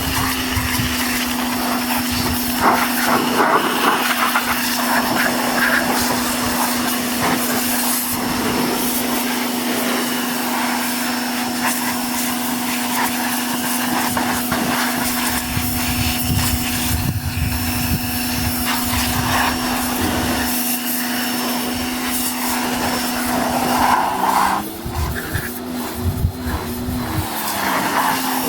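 Pressure washer running steadily with a constant motor hum, its spray hissing against a motorcycle; near the end the motor's pitch shifts up and down.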